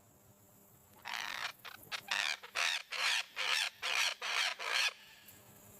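Harsh, screechy parrot calls presented as the voice of the extinct Carolina parakeet: about nine rapid squawks in a row, starting about a second in and stopping near the five-second mark.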